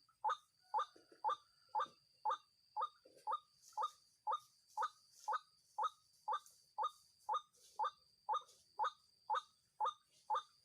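White-breasted waterhen (ruak-ruak) calling its repeated croaking note, about two calls a second in an even, unbroken rhythm, with a steady faint high tone behind it.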